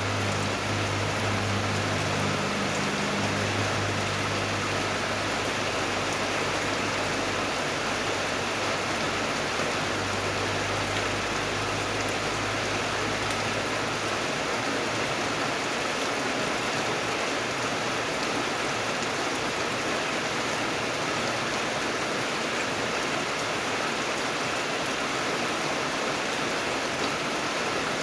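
Steady rain falling, an even hiss that holds at one level throughout. A low rumble underneath is strongest at the start and fades out about halfway through.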